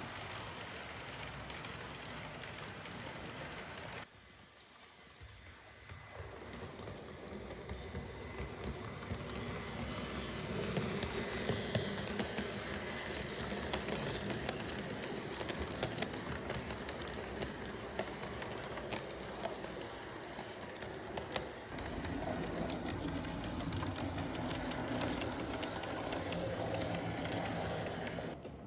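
Model trains running on a layout, wheels clicking and rattling along the track with small motors running. The sound changes abruptly twice, dropping about four seconds in and rising again near 22 seconds.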